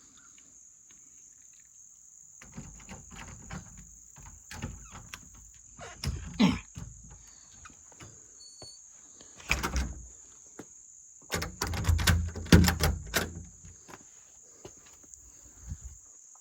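Crickets chirping steadily in the background. Over it come several bouts of knocking, rattling and clattering, loudest about 6, 9.5 and 12 seconds in, as a garage door is shut.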